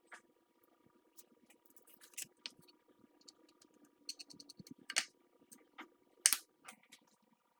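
Light clicks and knocks of hand tools and wood being handled on a workbench, with a quick run of small ticks about four seconds in and two sharper taps a little later, over a faint steady hum.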